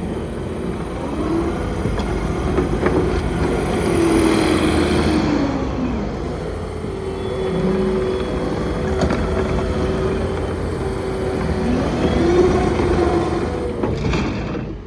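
Takeuchi TL12V2 compact track loader's diesel engine running, its pitch dipping and rising several times as the revs and load change. A few sharp clanks come in between.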